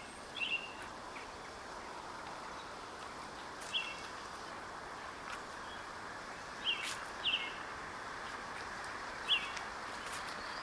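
A songbird gives short, sharp chirp call notes every few seconds, once as a quick double note, over a steady background hiss.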